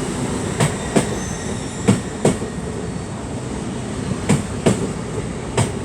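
LNER Class 801 Azuma train running past, its wheels clicking in pairs over rail joints four times as the bogies go by, over a steady rolling rumble.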